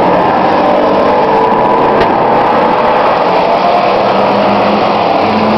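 Several race trucks' engines running hard and revving together on a dirt oval, with a brief sharp knock about two seconds in.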